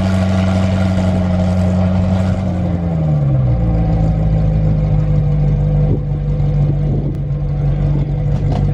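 Car engine running steadily with a loud, low drone; about three seconds in its pitch slides down a little as the revs drop, then holds steady.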